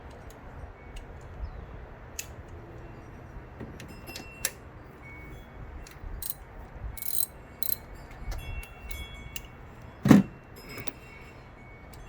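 Metal tools and engine parts clinking and clanking as they are handled, in light irregular clicks and short rings, with one louder heavy knock near the end.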